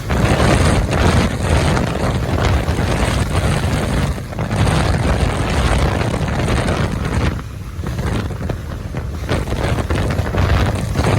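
Motorcycle running at speed, with heavy wind buffeting the microphone. The sound eases off for about two seconds a little past the middle.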